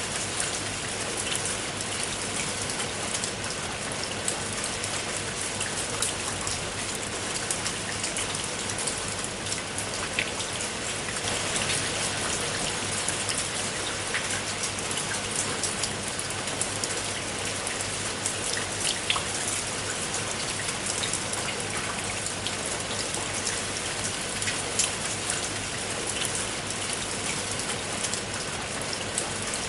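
Steady rain falling on a tiled roof: a dense, even hiss with many individual drops ticking sharply against the tiles.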